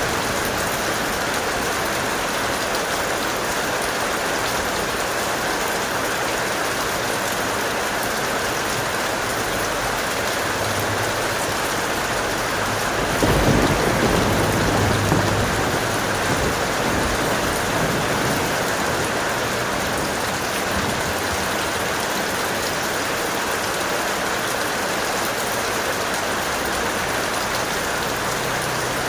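Heavy, steady rain pouring down. About halfway through, a low rumble of thunder swells for a few seconds and fades back into the rain.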